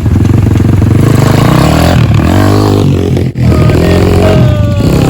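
Dirt bike engine running loud and revving, its pitch climbing and falling with the throttle, with a momentary drop about three seconds in.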